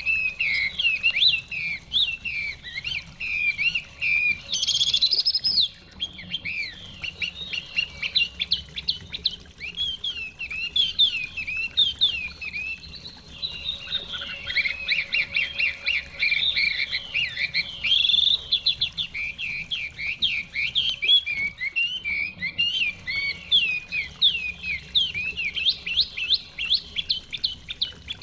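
Chinese hwamei (họa mi) singing a long, unbroken run of fast, varied whistled notes and chirps.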